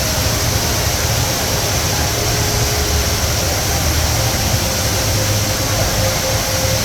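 Steady, loud rush of the Rain Vortex indoor waterfall: water falling in a tall column into its basin.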